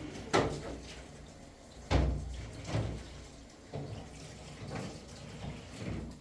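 A few sharp knocks and clatters, the clearest near the start and about two seconds in, over a faint background.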